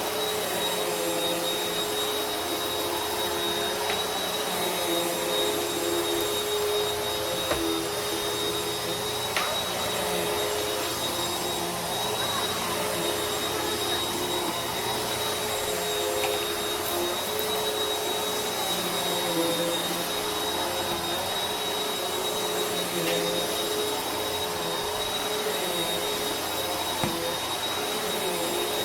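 Vacuum cleaner running steadily, its motor giving a constant whine over the rush of suction, with a few faint clicks and rattles.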